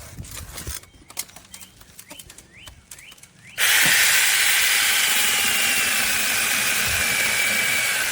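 SEESII brushless battery mini chainsaw switching on about three and a half seconds in after a few light clicks, then running loudly with a high whine that sinks slightly as it cuts wood.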